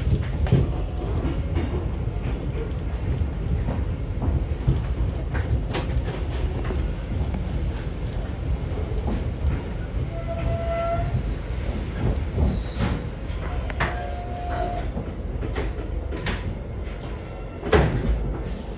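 Train running on rails: a steady low rumble with clicking wheels and a few brief high-pitched squeals partway through.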